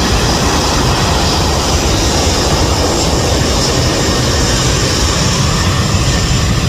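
Jet airliner engines, a loud, steady roar with a faint high whine above it.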